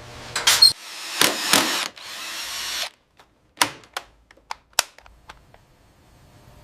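Mechanical tool noises: several short noisy bursts and a hiss in the first three seconds, then a string of sharp clicks and taps that die away about two seconds later.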